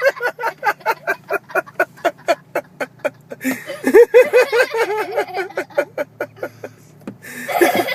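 Seagulls calling in a fast, rapid-fire series of short cries, about four or five a second, with a louder run of downward-sliding calls a few seconds in.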